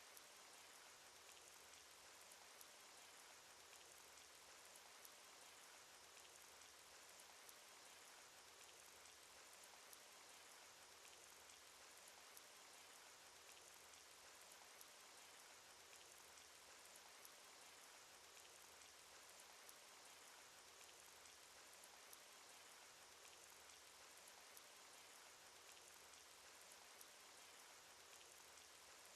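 Cartoon rain sound effect: a faint, steady hiss of rainfall, flecked with many small ticks of individual raindrops.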